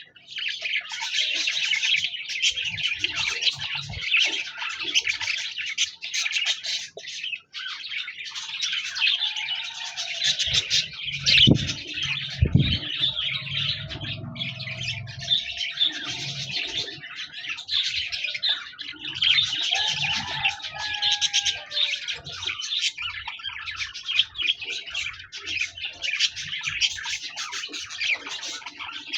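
Budgies singing: continuous fast chattering, chirping and warbling, with a few longer whistled notes. Two sharp thumps come about twelve seconds in.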